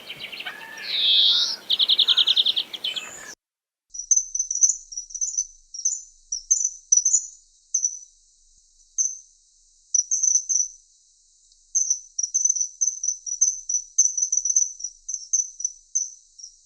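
Recorded small-bird song: first a repeated fast trill, then, after a brief cut to silence, a long run of thin, very high, short chirps in quick irregular bursts.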